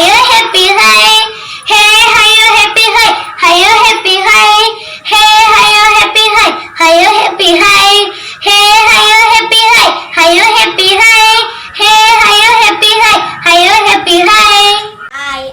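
A child singing a song solo, without accompaniment, in phrases broken by short breaths; the voice stops just before the end.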